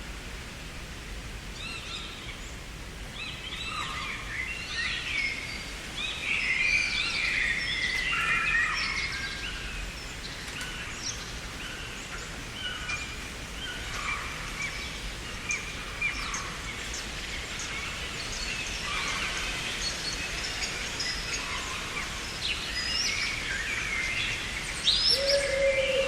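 Several songbirds chirping and singing in overlapping short phrases over a steady background hiss. A lower, steady call starts near the end.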